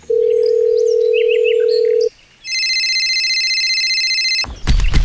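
Telephone call tones: a steady pure ringing tone for about two seconds, a short pause, then a higher, buzzier ring of similar length. A loud burst of noise starts near the end.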